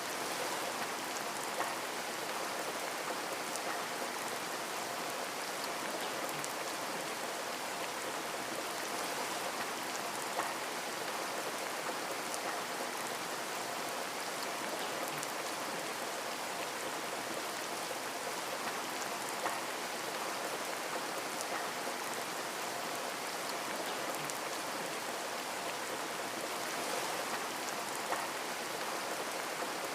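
Steady rain pattering on a window, a constant hiss with scattered individual drop ticks.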